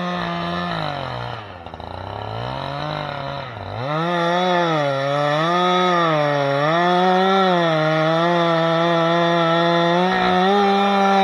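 Chainsaw running at high revs and cutting wood. Its pitch sags deeply for a couple of seconds as it bogs in the cut, then rises and falls about once a second under load, and holds steady and high near the end.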